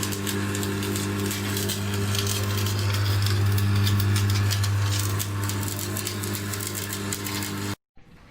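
Workshop machine running: a loud, steady electrical hum with a dense crackling hiss over it, cut off suddenly near the end.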